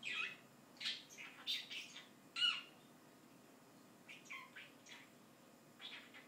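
Pet bird squawking and chirping: a burst of short, sharp high-pitched calls over the first two and a half seconds, then a pause and a few more calls near the end.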